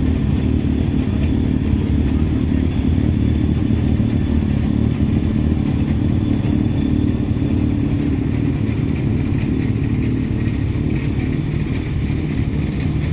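Historic rally car's engine idling steadily.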